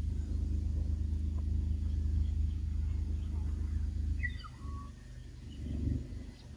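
A bird calling in short, high, falling chirps, a few notes in quick succession about four seconds in, over a steady low rumble that fades soon after.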